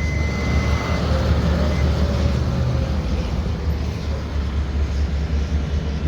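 Snowplow engine running, a steady low rumble.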